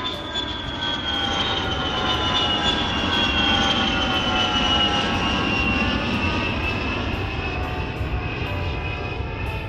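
Jet airliner takeoff sound effect: a loud, steady engine rush with whining tones that slowly fall in pitch.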